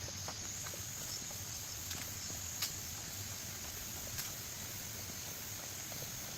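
Forest ambience: a steady, high-pitched insect chirring, with a few scattered faint ticks and taps.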